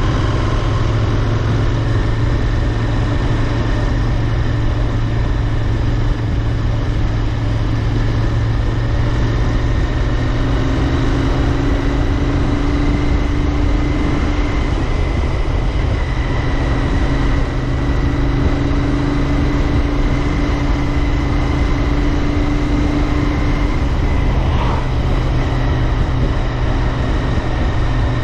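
Royal Enfield Interceptor 650's 648 cc parallel-twin engine running at a steady cruise, with wind and road noise on the helmet or bike-mounted microphone; engine speed holds nearly constant throughout.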